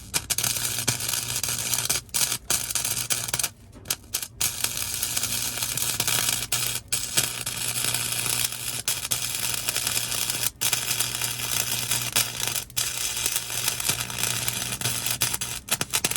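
Welding arc crackling and sputtering as a bead is laid on the sheet-metal floor pan, broken by several short pauses between stitches. A steady low hum runs underneath.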